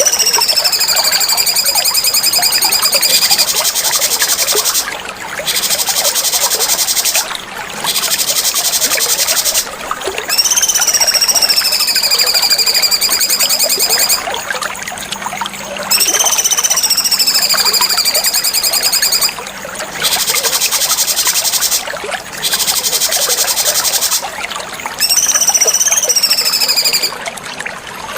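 Cucak cungkok song: long, clear whistles that slide downward in pitch, repeated several times and alternating with stretches of rapid, high-pitched trilling.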